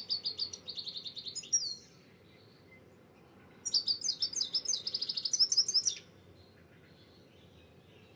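A songbird singing two fast trilled phrases of high, quickly repeated notes, each about two seconds long and ending in a few slurred notes, with a pause of about two seconds between them.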